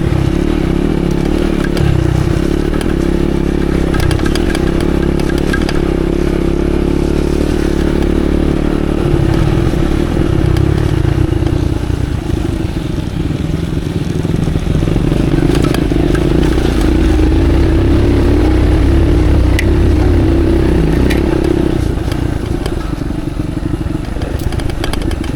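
Off-road motorcycle engine running steadily at low speed over a rough track, its note shifting about a third of the way in, with scattered clattering knocks from the bike.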